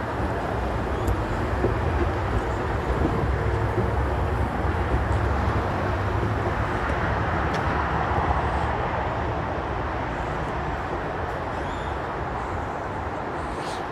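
Steady rumble and noise of a vehicle, swelling a little about eight seconds in.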